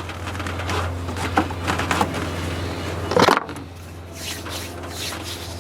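Small plastic clicks and scrapes from the parts of a truck's wiper switch being handled and fitted back together, over a steady low hum. A louder knock comes a little past halfway.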